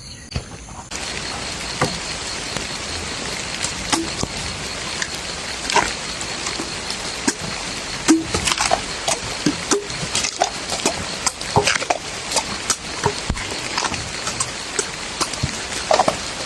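Steady rain falling, with scattered drips and small knocks through it.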